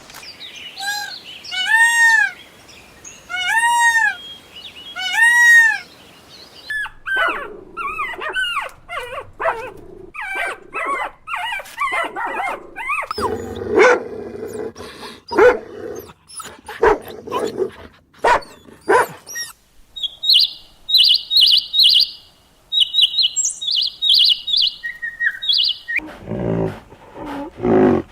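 A run of different animal calls: first a few high, arched calls about two seconds apart, then a busy stretch of clicking and chattering, then quick high bird chirps.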